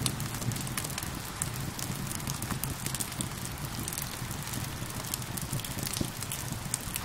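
Wood fire crackling with frequent small sharp pops, over a steady hiss of falling rain.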